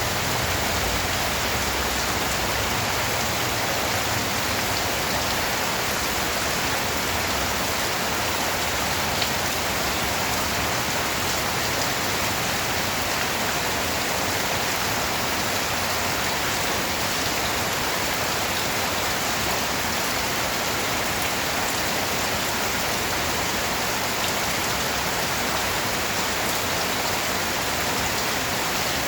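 Steady rain falling on a surface: an even, dense hiss with faint scattered drop ticks.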